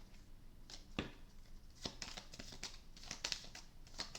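Tarot cards being handled: papery rustling and sliding with light taps and clicks, and a sharper knock about a second in.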